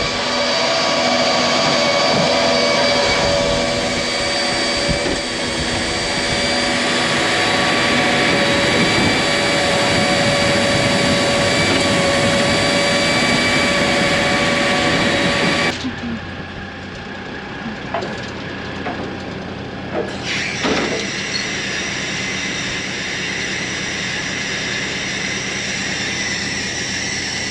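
Fertilizer-loading machinery running steadily with several steady tones while urea sulfur is filled into a tank. About two-thirds through it cuts off abruptly to a quieter steady engine hum with a few clicks.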